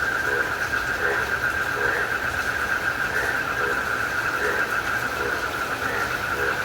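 Night chorus of crickets, a continuous high pulsing trill, with a frog's short low call repeating a little faster than once a second, over a steady hiss of rain.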